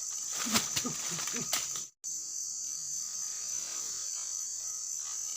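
Steady high-pitched trilling of insects, crickets or cicadas, along the riverbank. A few short, low sounds come in the first two seconds, and the sound breaks off for an instant at an edit about two seconds in.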